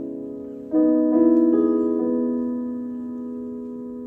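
Piano chords: a held chord fades out, then new chords are struck under a second in and left to ring, slowly dying away.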